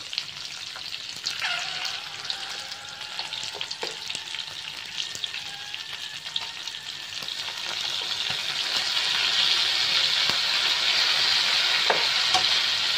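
Blue crab pieces frying in a hot wok, sizzling steadily, with a spatula scraping and tapping against the pan as it stirs. The sizzle grows louder about two-thirds of the way through.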